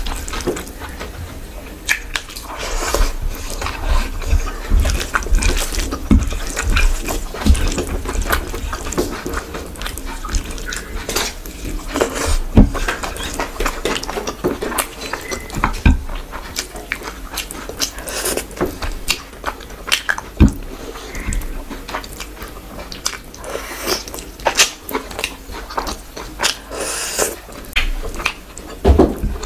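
Close-miked eating by hand: wet chewing and lip smacking, with fingers squishing and mixing rice and curry on a plate, making many sharp wet clicks.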